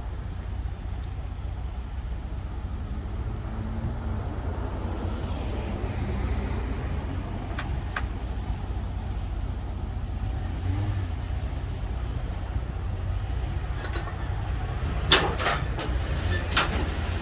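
A motor vehicle running with a steady low rumble, with a few sharp clicks or knocks near the end.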